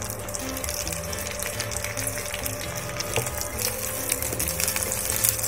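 Diced onion and green capsicum sizzling steadily in hot oil in a non-stick pan, stirred with a wooden spatula toward the end.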